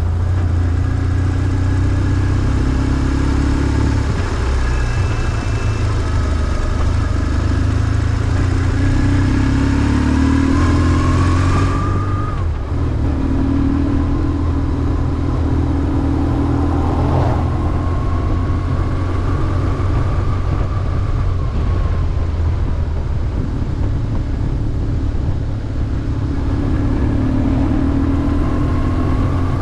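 BMW R1150GS air/oil-cooled boxer twin running under way, its note rising and falling with the throttle. It climbs steadily, then drops sharply about twelve seconds in, and climbs again near the end.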